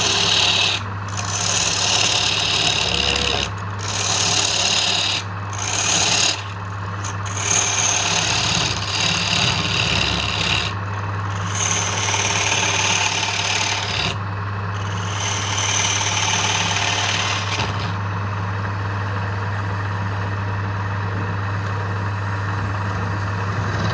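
Wood lathe running with a steady motor hum while a tool or abrasive is worked against the spinning wood in repeated scraping passes with short breaks between them. The scraping stops about three quarters of the way through, leaving the lathe humming alone.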